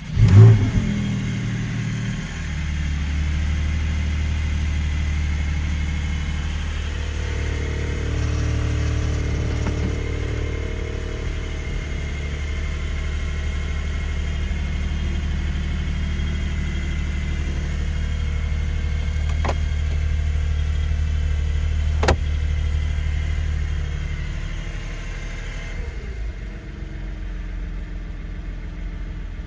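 A Porsche 718 Boxster Spyder's naturally aspirated 4.0-litre flat-six, with sport exhaust, catches on a cold start with a loud flare, then settles into a steady high cold idle. Near the end the idle drops to a lower, quieter level as the fast idle comes down.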